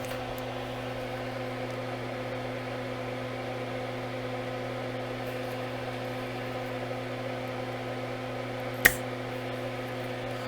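Steady mechanical hum from the bench, with one sharp snap near the end as a spring-loaded solder sucker fires to pull molten solder off the connector.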